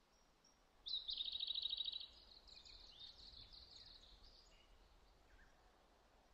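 A songbird singing a fast trill of rapidly repeated high notes about a second in, then a few softer chirps, over a faint steady hiss.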